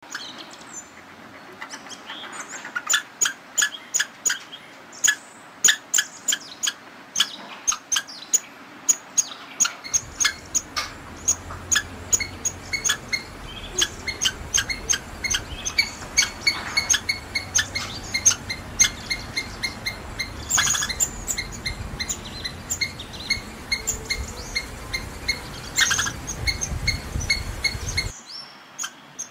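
A squirrel's alarm call: a long run of short, sharp, high chirps, about two to three a second, some louder than others.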